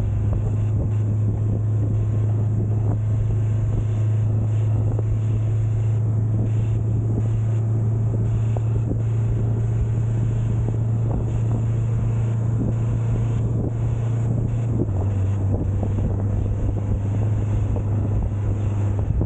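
Large military truck's diesel engine droning steadily at freeway cruising speed, with wind noise over it. The engine's pitch drops slightly about fifteen seconds in.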